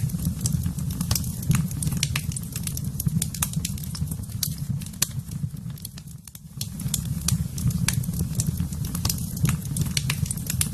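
Fire burning in a fireplace, crackling with many irregular sharp snaps and pops over a low steady rumble; the rumble dips briefly about six seconds in.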